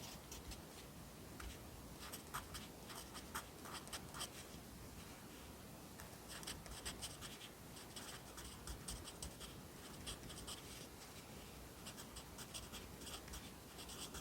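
Pencil writing Korean characters on paper: runs of short scratchy strokes with brief pauses between the groups.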